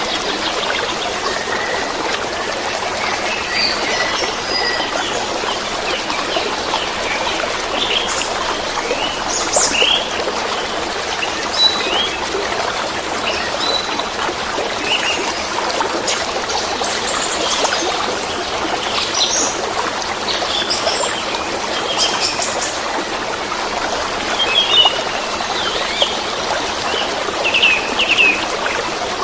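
Flowing water making a steady, even rush, with small songbirds chirping and twittering over it in quick, scattered calls, busiest in the second half.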